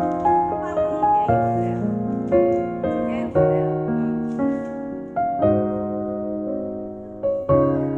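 Background piano music: a melody of single notes stepping along over lower held notes, each note struck and fading.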